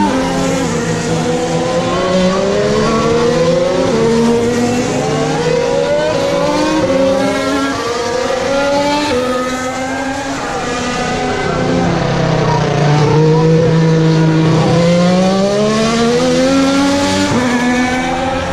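2018 Formula 1 cars' 1.6-litre turbocharged V6 hybrid engines braking and accelerating through a chicane. The engine note climbs and drops back in steps with each quick upshift, and about halfway through it falls away through the downshifts before climbing again.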